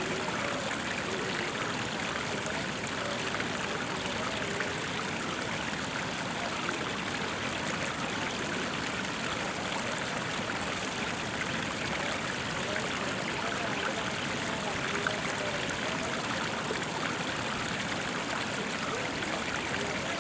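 Water of Athirapally Falls rushing and splashing, a steady, even wash of sound without a break.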